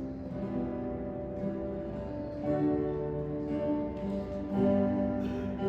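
Acoustic guitar strumming held chords in the instrumental ending of a worship song, the chords changing every second or two with no voice singing.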